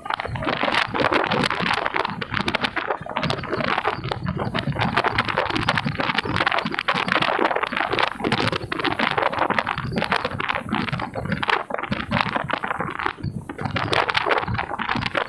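A train rolling past close by: a loud, steady rumble with dense rattling and clatter of wheels on the rails.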